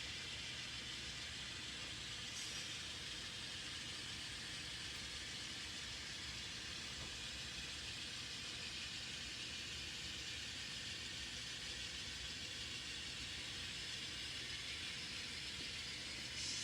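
N scale model train running on the layout track, a steady hiss-like rolling whir with no clear rhythm.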